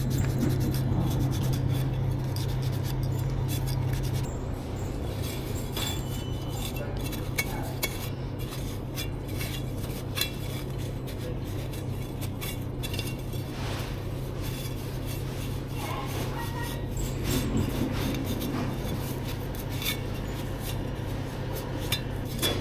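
Rubbing and scrubbing with scattered light clinks and knocks of glass and hard plastic, over a steady low hum that drops a little about four seconds in.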